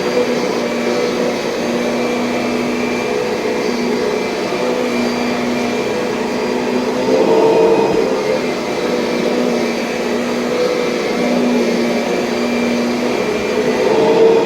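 Kirby Sentria upright vacuum cleaner running steadily, a droning motor hum that swells a little about seven seconds in.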